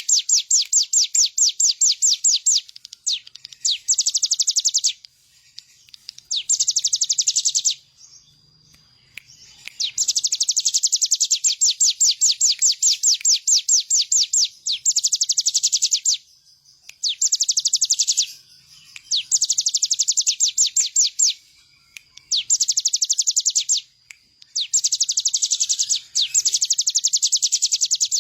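Ciblek gunung, a prinia, singing vigorously: rapid trills of sharp, evenly repeated chip notes, about ten a second, in bursts of one to five seconds broken by short pauses.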